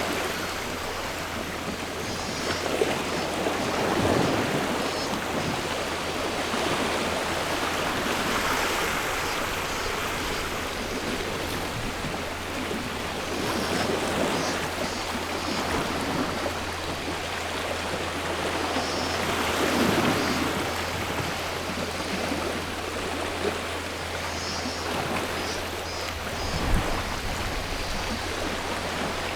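Sea waves washing onto the shore, swelling and falling back every five or six seconds, with cicadas calling in short pulsing phrases that recur every few seconds.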